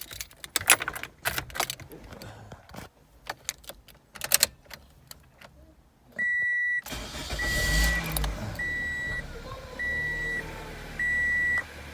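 Car keys rattling and clicking, then the car's engine starting and running while a warning chime beeps five times, about a second apart.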